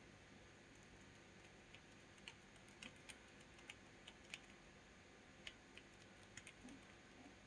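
Faint, irregular light clicks, about a dozen scattered unevenly over a quiet background.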